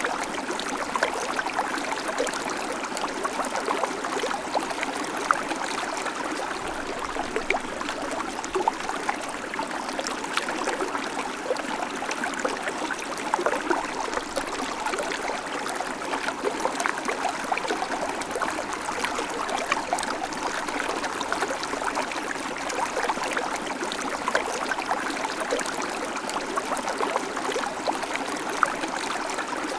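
A shallow babbling creek: water running and trickling over stones in a steady, even rush, flecked with many small splashes and gurgles.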